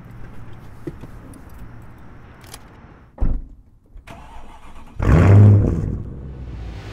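A car door shuts with a thump about three seconds in. About five seconds in, the 2005 Mercedes CLK 500's 5-litre V8 starts: a loud flare of revs for about a second, then it settles to a steady idle through its straight-pipe quad exhaust with an X-pipe in place of the resonator.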